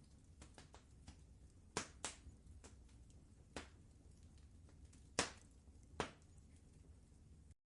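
Wood fire crackling in a fireplace: scattered small snaps and five sharper pops over a low steady rumble. The sound cuts out for a split second near the end.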